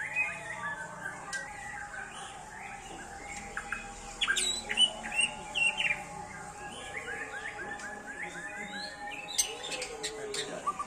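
White-rumped shama (murai batu) singing a varied song of clear whistled notes and sweeps, with its loudest sharp notes about four to six seconds in and a quick run of repeated notes near the middle.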